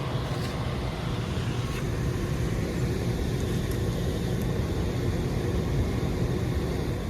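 York rooftop gas heating unit running steadily in heat mode with its blower on, a constant low rumble with a faint hum.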